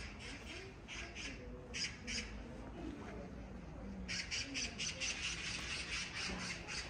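Birds calling in runs of short, quick chirps, sparse at first and then a dense run of about six a second starting about four seconds in, over faint distant voices.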